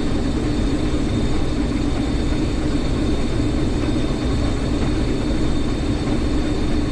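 Combine harvester running steadily: a continuous engine drone with a steady high whine over it.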